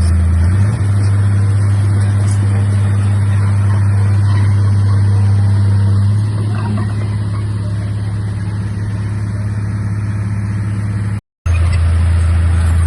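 Komatsu D31A bulldozer's diesel engine running under load, a steady low drone whose note shifts slightly about a second in and again around six seconds in. The sound cuts out completely for a split second near the end.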